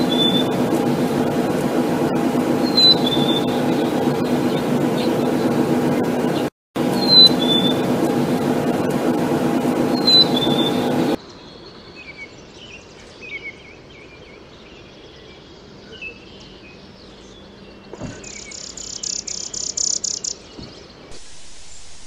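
Black-capped chickadee singing its two-note whistled song, a higher note then a lower one, about every three seconds, over a steady hum. Then, after about eleven seconds, a chipping sparrow's short chirps and a fast dry trill near the end.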